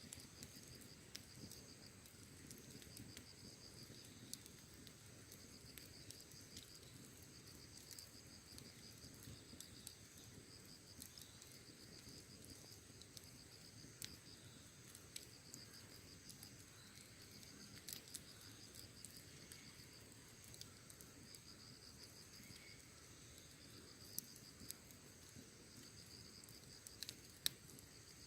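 Quiet campfire crackling with scattered sharp pops, the loudest two near the end, over a low rumble. Crickets chirp in a steady pulsing trill behind it.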